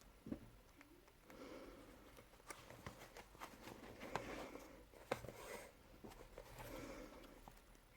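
Faint rustling and scattered small clicks of hand-sewing neoprene: the needle pushed through the wetsuit and the thread drawn tight, stitch after stitch.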